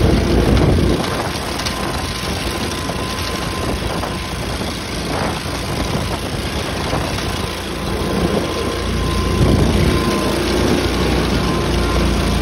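Tractor engine running steadily, its low rumble heavier in the first second and again from about nine seconds in.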